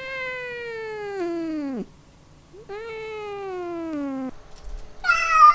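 Domestic cat meowing: two long, drawn-out meows, each falling in pitch. A louder, higher-pitched call starts near the end.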